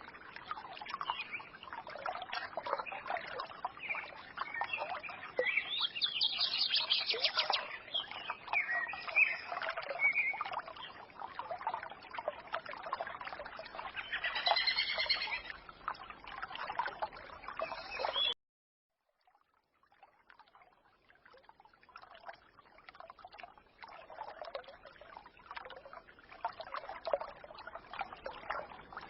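Songbirds chirping and trilling over a trickling forest stream. About two-thirds of the way through, the sound cuts out suddenly for a second or two, then the stream returns more quietly with fainter birdsong.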